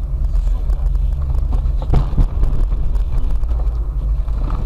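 A car driving: steady low rumble of engine and road noise, with a couple of light knocks about two seconds in.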